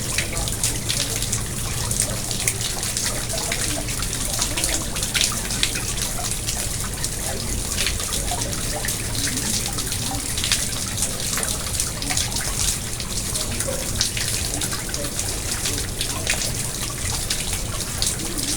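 Pond water splashing and trickling steadily, with a constant patter of small drips and splashes.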